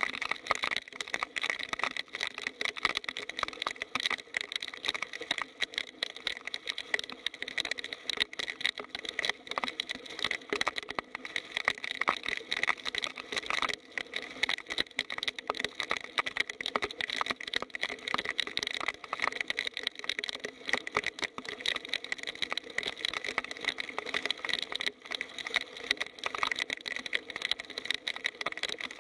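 Heavy rain falling, a dense, unbroken patter of drops hitting close to the microphone, with a steady high-pitched drone underneath.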